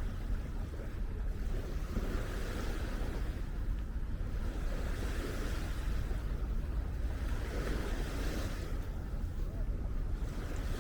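Small waves washing onto a sandy shore, a hiss that swells and fades every few seconds, with wind buffeting the microphone in a steady low rumble.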